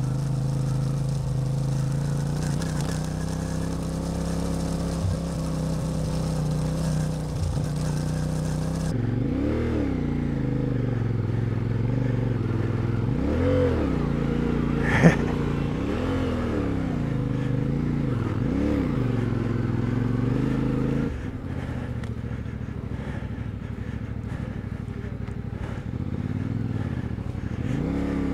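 CFMOTO 450MT motorcycle's parallel-twin engine running while being ridden. Its note holds fairly steady at first, then rises and falls over and over as the throttle is opened and closed. A single sharp knock comes about halfway through.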